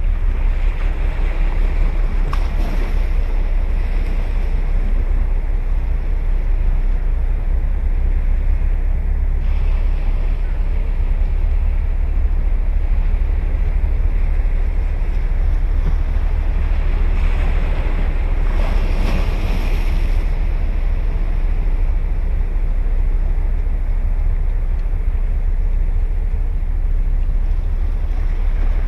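Ocean surf: waves breaking and washing up the shore in a continuous wash, swelling louder about two seconds in and again around eighteen to twenty seconds in. A steady low wind rumble on the microphone runs underneath.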